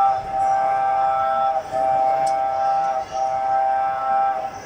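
Mini train ride's whistle sounding a chord of steady tones in a run of long blasts, each about a second and a half with a short break between, cutting off near the end.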